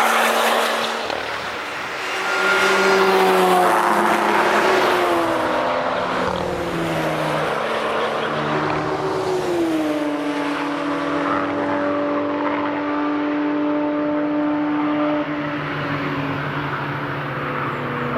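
Several cars passing at speed on the Nürburgring Nordschleife during public driving sessions, their engines overlapping. The loudest pass-bys come in the first few seconds. About ten seconds in, one engine's pitch falls and then holds steady.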